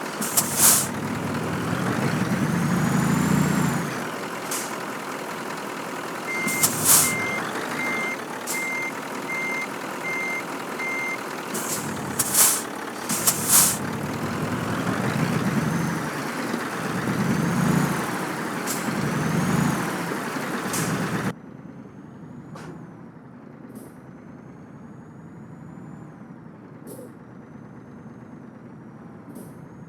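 Scania truck's diesel engine running while it manoeuvres, with several sharp hisses of the air brakes and a reversing beeper sounding for about five seconds. About two-thirds of the way through, the sound drops suddenly to a much quieter engine hum.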